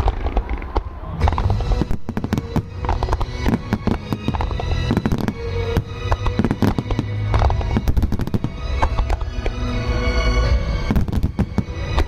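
Fireworks bursting and crackling in quick, irregular succession, many reports overlapping, with music playing underneath.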